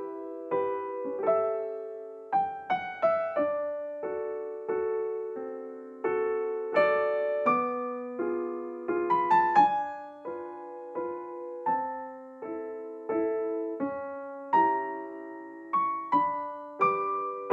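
Soft solo piano background music: a slow melody of single notes over gentle chords, each note fading after it is struck.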